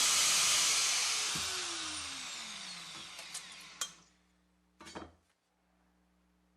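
A power tool running with a loud hiss is switched off and winds down, its whine falling in pitch as it coasts to a stop. A sharp click and then a double clunk follow, as of the tool being set down.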